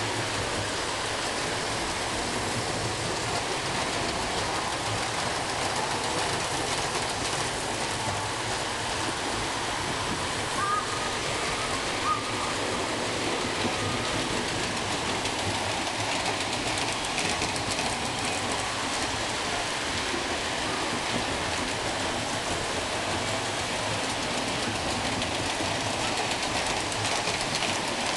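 Model trains running on a layout: a steady, even rushing rattle of wheels on track.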